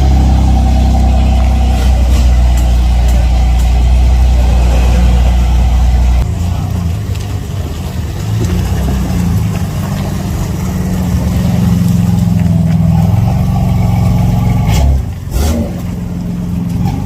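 Car engines running loudly: a deep, steady drone that cuts abruptly about six seconds in to a different engine note that shifts slowly, with a sudden break near the end.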